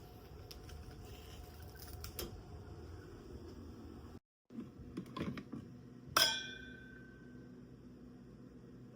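Small hard items being handled, with a few light clicks and one sharp ringing clink about six seconds in.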